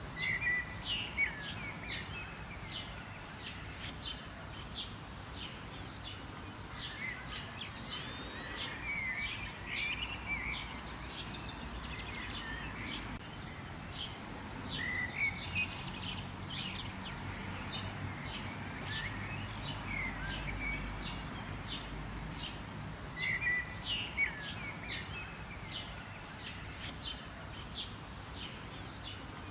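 A chorus of several birds chirping and calling, a dense run of short high chirps mixed with warbling phrases, over a low steady rumble.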